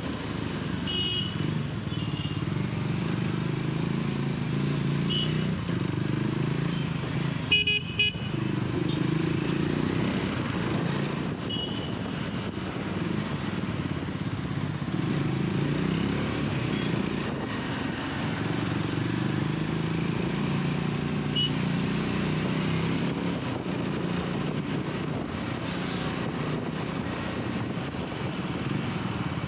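Triumph Scrambler 400X's single-cylinder engine running steadily at low speed amid traffic, with short toots of other vehicles' horns several times. A sharp knock comes with a horn blast about eight seconds in.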